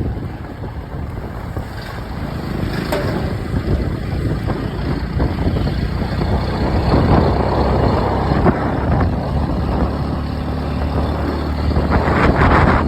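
Motorcycle running while being ridden, a steady low engine drone under road noise.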